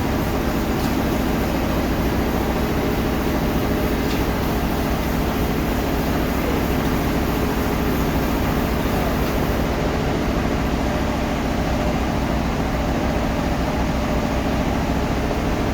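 Sawmill machinery running steadily: a loud, even mechanical drone with a constant low hum.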